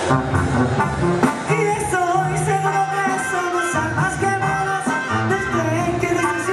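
A Mexican banda ensemble of brass and drums playing a lively tune, with a singing voice carrying the melody from about a second and a half in.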